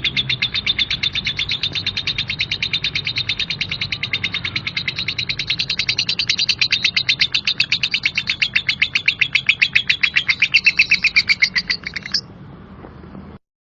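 Lovebird ngekek: one long, unbroken run of rapid harsh chirps at about eight a second. It stops abruptly about twelve seconds in, and a faint low hum carries on underneath.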